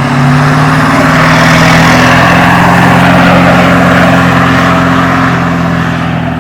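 A motor vehicle's engine and exhaust running very loud and steady, easing slightly near the end.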